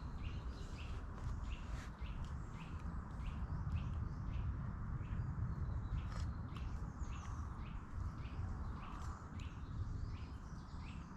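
A small bird chirping over and over, short falling notes about two or three a second, over a steady low rumble.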